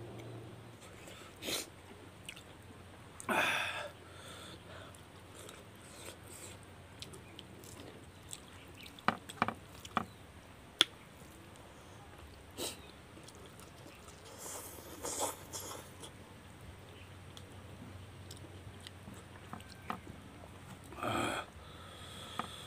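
A person eating rice by hand from a banana leaf: chewing and mouth smacking, with scattered sharp clicks and three short, louder noisy bursts.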